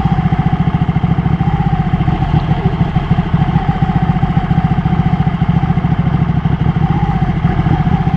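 Ducati motorcycle engine running at low, steady revs with an even, rapid throbbing and no revving, as when rolling slowly through city streets.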